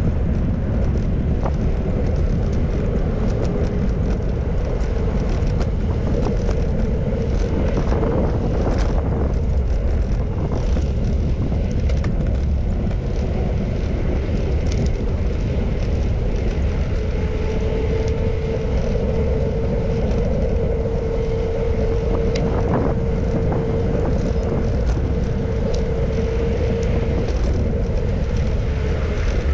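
Wind rushing over the microphone while riding a bicycle, with road and traffic noise. A steady hum sets in about halfway through and fades near the end.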